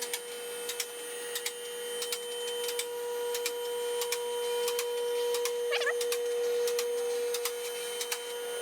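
Car lift raising a car: its electric pump motor hums steadily while the safety locks click regularly, about two to three times a second.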